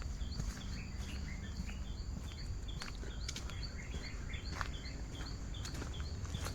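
Tropical forest ambience: a bird repeats a short high chirp about two to three times a second, over a low background rumble, with a few scattered clicks.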